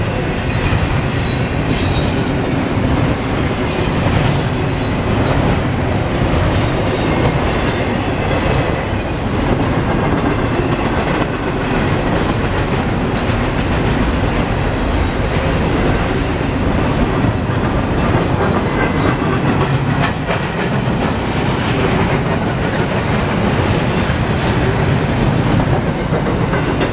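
Double-stack intermodal train's container well cars rolling past: a steady rumble and clatter of steel wheels on rail, with brief high-pitched wheel squeals now and then.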